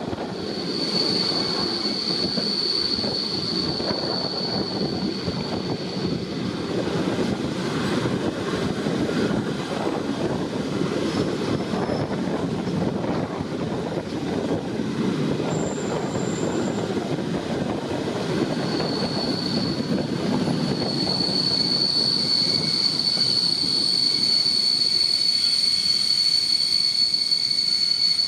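Train running on rails, a steady rumble of wheels on track. A high, steady wheel squeal sets in about a second in and fades after about six seconds, then returns at about nineteen seconds and holds to the end.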